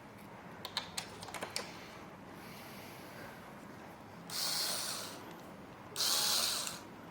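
Light plastic and metal clicks from gaming-chair parts being handled and fitted, a handful in quick succession, followed by two short hissing rushes about a second apart.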